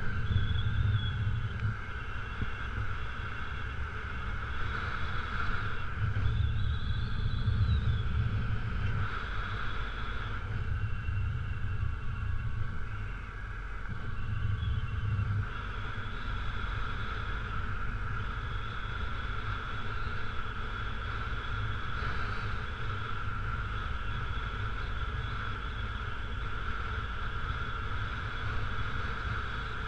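Honda CRF250L's single-cylinder four-stroke engine running as the motorcycle rides a dirt road. Its low rumble swells a few times, near the start, from about six to nine seconds in, and again around fifteen seconds.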